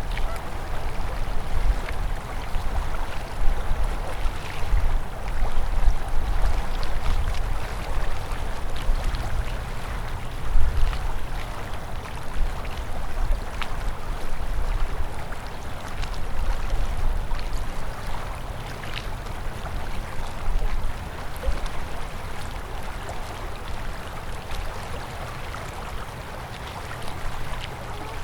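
Open river water flowing and burbling, with many small splashes and a low, uneven rumble underneath.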